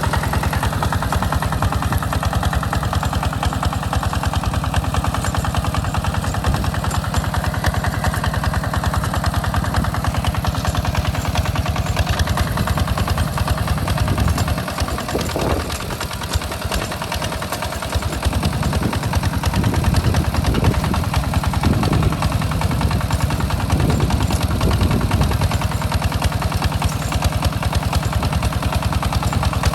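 Tractor engine running steadily with a fast chugging beat while plowing a rice field, easing off briefly about halfway through and then picking up again.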